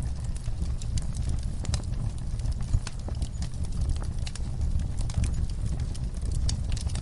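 Wood fire burning in a fireplace: a steady low rumble of the flames with irregular crackles and pops from the burning wood.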